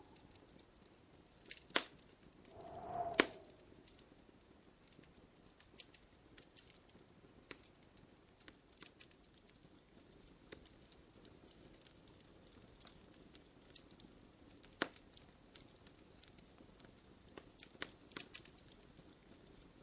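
Wood fire in a fireplace crackling, with irregular sharp pops and snaps, the loudest about two and three seconds in. A short, low bird call sounds once about three seconds in.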